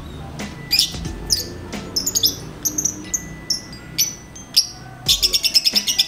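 Lovebird calling: scattered sharp high chirps with short gaps, then about five seconds in a fast chattering run of rapidly repeated notes.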